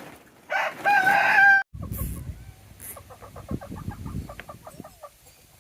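A rooster crows once, loud, for about a second, and is cut off suddenly. Then chickens cluck softly in many short calls over a low rumble.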